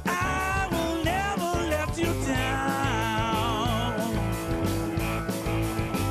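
Blues-rock band playing: a steady drum beat and bass under a lead line that bends and wavers in pitch.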